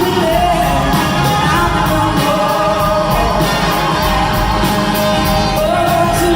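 Live rock band playing with a lead vocalist singing held, bending notes over it and drums keeping a steady beat, heard with the echo of a large theatre.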